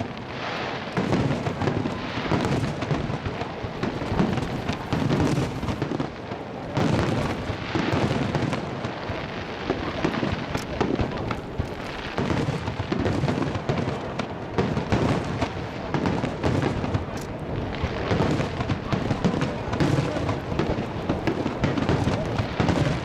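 Starmine fireworks barrage: many shells bursting in quick, overlapping succession, a continuous rumble of booms and crackles.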